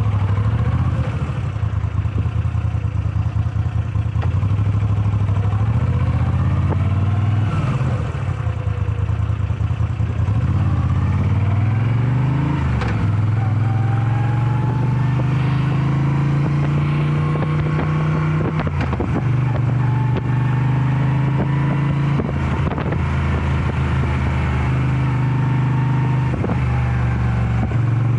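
Moto Guzzi V7 Special's air-cooled transverse V-twin engine under way on a ride. The revs climb and drop back several times in the first half, as if shifting up through the gears. It then runs at a fairly steady cruising pitch with gentle swells and dips in the revs.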